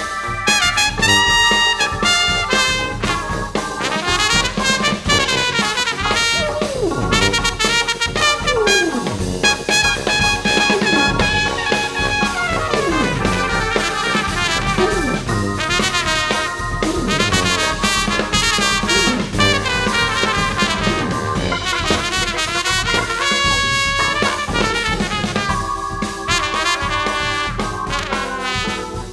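Jazz brass ensemble music: trumpets, baritone saxophone and tuba with keyboards and drums, playing continuously. Several downward pitch slides in the low register come through in the first half.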